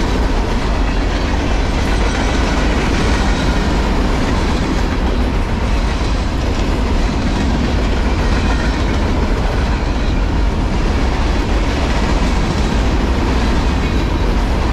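Freight cars carrying empty garbage containers rolling past at speed: a steady, loud rumble of steel wheels on the rails.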